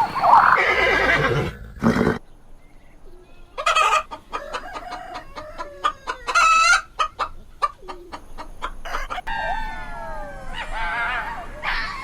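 Chickens clucking and calling, with rooster crowing: a quick series of short calls in the middle, then a run of calls falling in pitch near the end.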